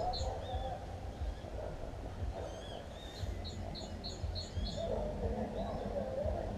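Small songbirds chirping in short high notes, with a quick run of repeated notes about halfway through, over a steady low rumble.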